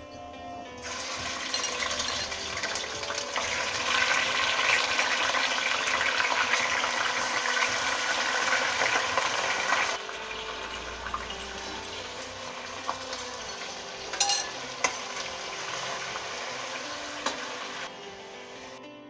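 Raw chicken pieces sizzling in hot oil in a steel kadhai, loud for the first several seconds and dropping to a quieter steady sizzle about ten seconds in. A few sharp metal clinks of a slotted spoon against the pan come in the second half.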